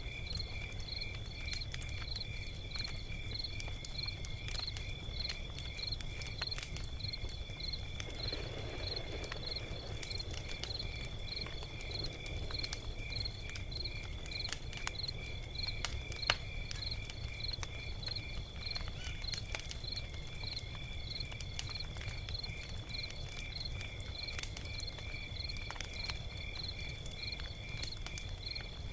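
Log fire crackling, with scattered sharp pops and snaps over a low steady rumble. A high chirp repeats evenly, a little under twice a second, over a steady high tone.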